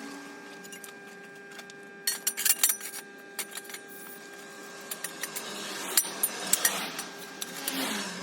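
Steel pieces clinking and clattering in short clusters of sharp knocks, with a swell of rushing noise near the end.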